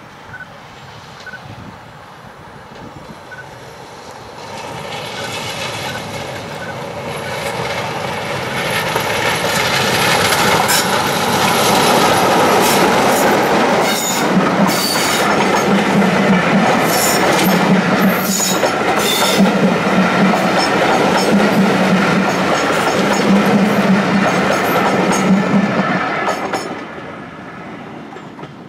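A diesel locomotive hauling a passenger train approaches and passes, its engine growing steadily louder over about ten seconds. The coaches then roll by with a steady rumble and a regular clatter of wheels over the rail joints, roughly once a second. The sound cuts off sharply shortly before the end.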